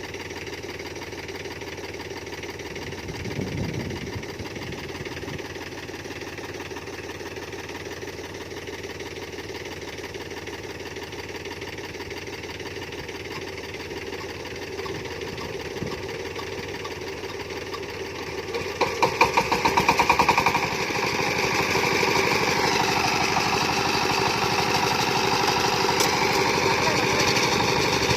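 Diesel engine of a farm tractor or power tiller running steadily. About two-thirds of the way through it surges with a pulsing sound for a couple of seconds, then keeps running louder, as if under more throttle or load.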